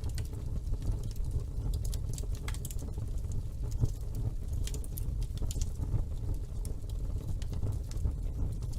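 Wood fire burning in a fireplace: a steady low rumble of flames with frequent small, irregular crackles and pops, one sharper pop a little under four seconds in.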